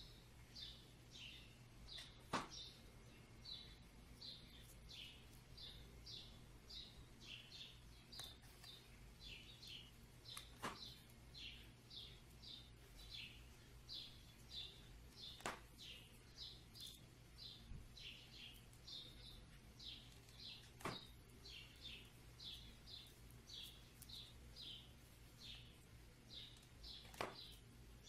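Faint, steady chirping of a small bird, about two short falling calls a second, over a low hum, with a few sharp clicks spaced several seconds apart.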